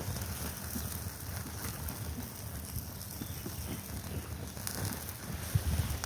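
Campfire burning with scattered faint crackles and pops over a steady low rumble.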